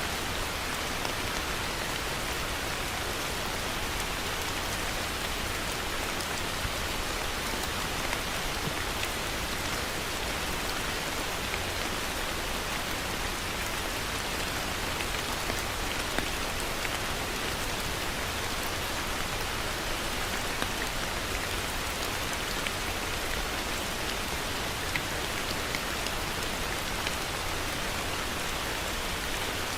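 Steady heavy rain falling on a surface, an even rushing hiss dotted with a few sharper drop ticks.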